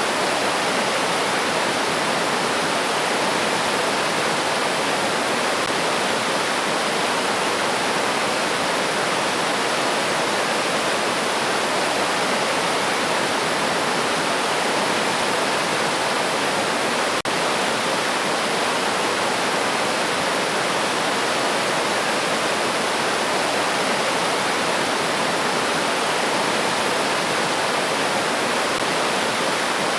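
River water rushing steadily over rocks, a constant even roar of flowing water. A single faint click a little past halfway.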